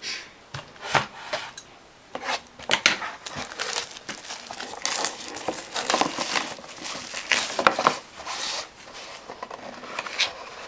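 Plastic shrink-wrap being torn and crinkled off a sealed trading-card box, in irregular crackling bursts.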